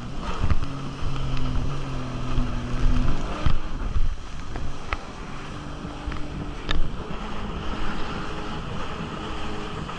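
Jet ski engine running under way, with wind buffeting the microphone and water rushing past. The engine note holds steady, fades about three seconds in, then returns more weakly, with a few sharp knocks.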